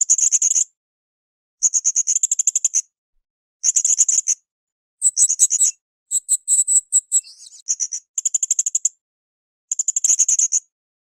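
Blue-crowned hanging parrot (srindit) calling in short high-pitched bursts of rapid pulsed notes, about seven bursts under a second long each, separated by brief pauses. One burst, about two-thirds through, is longer and more varied.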